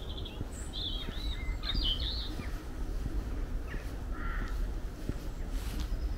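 Small birds chirping in quick short calls through the first two and a half seconds, then a single lower call about four seconds in, over a steady low rumble.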